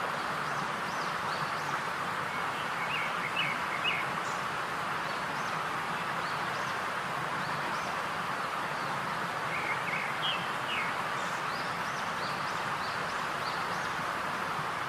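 Birds chirping over a steady hiss, with two spells of quick rising chirps, one about a third of the way in and one about two-thirds in.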